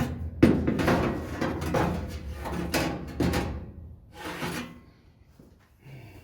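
Rubbing and scraping strokes as a part is shifted and slid into place by hand, a quick run of them over about four seconds, then a few faint knocks.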